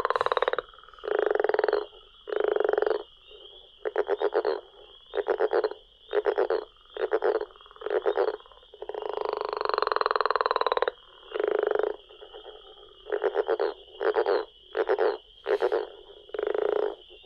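Recorded calls of a single frog species. Short pulsed croaks come about once a second, and two long pulsed calls of about two seconds each fall near the start and about halfway through. A steady high-pitched tone runs behind them.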